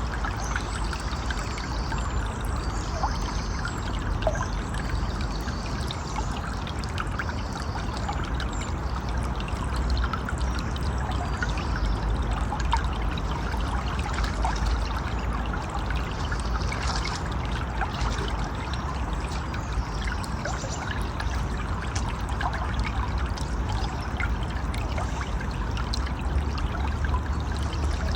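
River or stream water flowing and babbling steadily over rocks.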